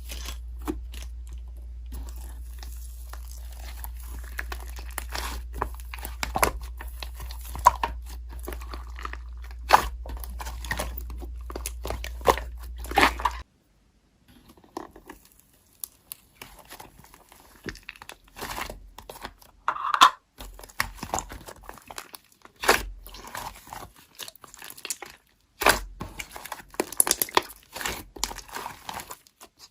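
Slime being squeezed and poked by hand, making irregular sticky clicks and pops. A low hum runs underneath until it cuts off abruptly about halfway through.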